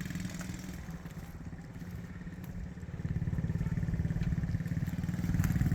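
A small vehicle's engine running under throttle, its pulsing exhaust note getting louder about three seconds in as more gas is given.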